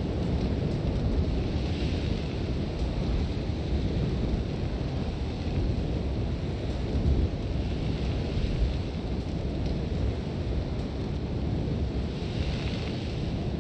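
Sandstorm wind blowing hard, with a deep, steady rumble and a hiss of blown sand that swells in gusts about two seconds in, around eight seconds in and near the end.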